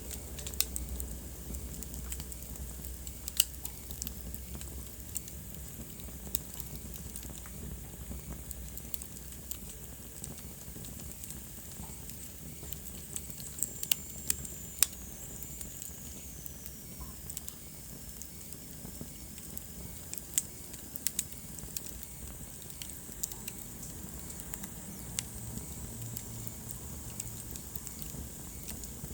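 Wood fire burning in a fireplace, crackling with irregular sharp pops over a steady hiss. A faint high whistle falls in pitch about fourteen seconds in.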